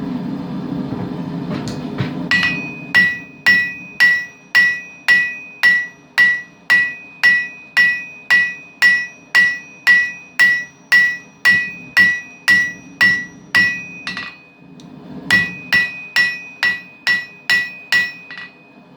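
Hand hammer striking hot steel on an anvil while forging a knife blade, in an even rhythm of about two blows a second with a bright metallic ring after each. The blows begin about two seconds in over a steady low hum, pause briefly about three-quarters of the way through, then resume for a shorter run.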